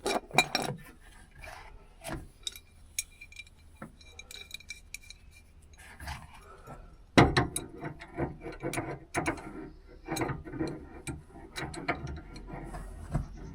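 Hand ratchet clicking as a bolt on a car's steering track rod end is worked loose, with scattered metal clicks and knocks, then a quicker, denser run of ratcheting from about seven seconds in.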